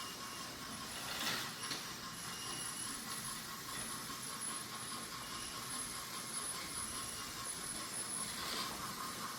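Several battery-powered toy trains running on wooden track: a steady whir of small motors and wheels, with a brief louder clatter about a second in and again near the end.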